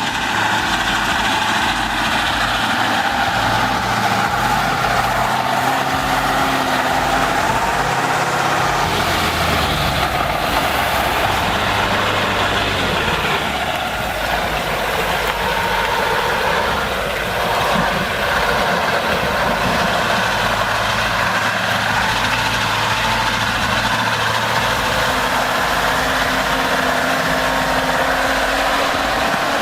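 Heavy truck engine running steadily, its low pitch shifting a little as it works.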